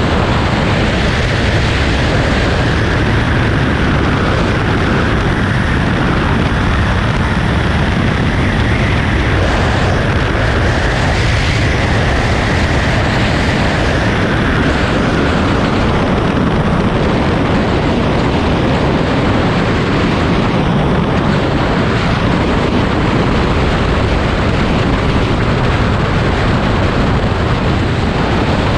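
Heavy, steady wind noise on the microphone of a motorcycle riding at speed, with the bike's engine and road rumble running underneath.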